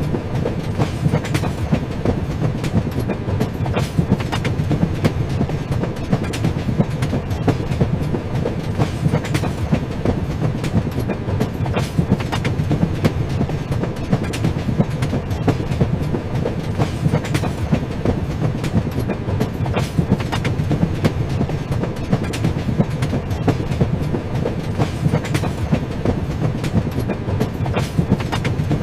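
Train running along the rails: a steady low rumble with frequent clicks and clatter from the wheels over the track.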